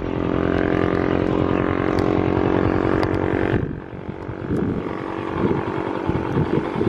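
Motorcycle engine running at a steady pitch, which drops away sharply about halfway through, leaving an uneven low rumble.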